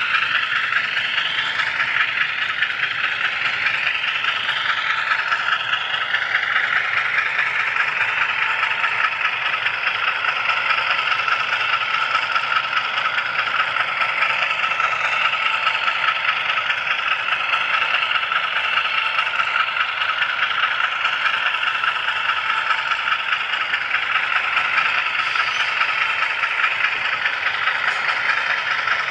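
HO scale model train and camera car rolling along the track, a steady rattle of small wheels on rails. A faint whine glides up and down over the first several seconds.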